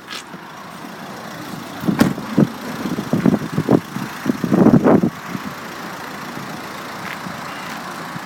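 Nissan Qashqai+2's 1.5 dCi four-cylinder turbo diesel engine running, with a run of short, irregular louder bursts about two to five seconds in before it settles back to a steady idle.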